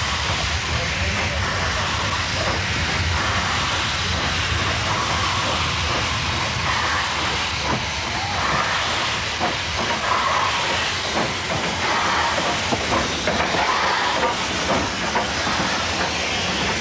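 A train passing by: a steady rushing run with its wheels clacking over the rail joints, the clacks coming thick and fast through the second half.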